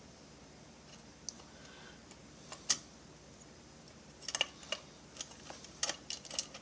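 Scattered small clicks and taps of small metal parts and tools being handled during chainsaw assembly: a few single clicks, then a quick run of clicks in the second half.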